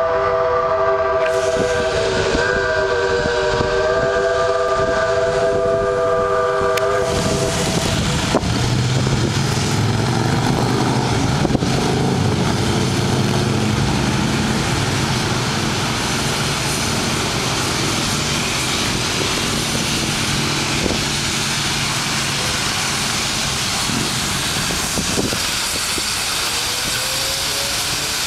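QJ-class 2-10-2 steam locomotive 7081 sounding its whistle in one long, steady multi-note blast for about seven seconds. It then runs past with a loud steady steam hiss over a low rumble of the train.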